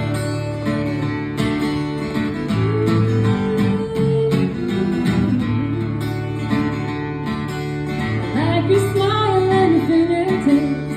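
Acoustic guitar playing a country-folk accompaniment, with a singing voice coming in about eight seconds in.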